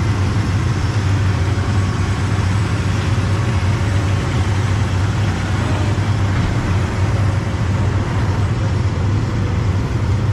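Combine harvester running steadily while harvesting corn with its corn head: an even, loud drone with a strong low hum.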